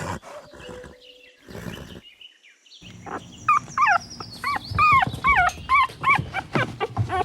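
Puppy whimpering and yipping: a run of short, high, rising-and-falling cries, about two a second, starting about halfway through.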